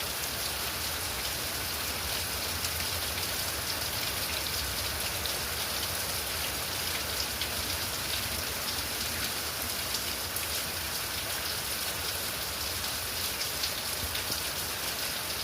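Steady rain falling in a thunderstorm: an even hiss of drops with fine pattering ticks.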